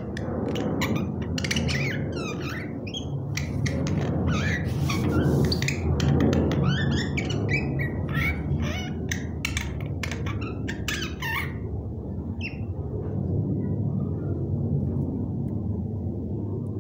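A pet myna giving a rapid string of short chirps, whistles and squeaks for about eleven seconds, then only a few faint calls, over a steady low rumble.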